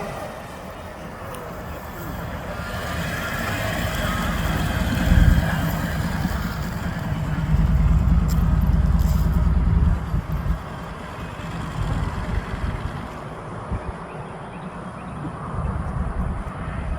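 Harley-Davidson motorcycle's V-twin engine running as the bike rides by: a deep rumble builds over several seconds, is loudest just before it drops away suddenly about ten seconds in, and then comes and goes more faintly.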